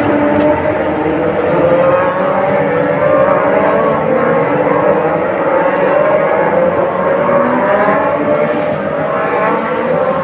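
MotoGP racing motorcycles running on the circuit, a continuous engine note that drifts slowly up and down in pitch.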